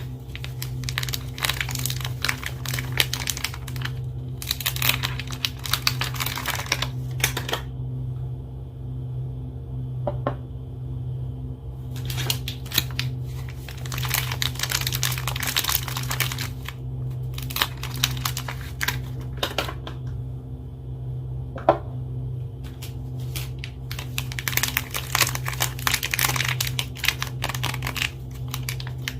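Soap bar wrappers being crinkled and torn open by hand, in bouts of a few seconds with short pauses between. A steady low hum runs underneath.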